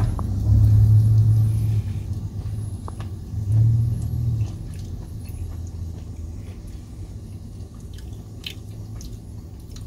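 A person chewing a mouthful of sautéed chicken of the woods mushroom, with faint mouth clicks, over a steady low rumble that swells twice in the first half.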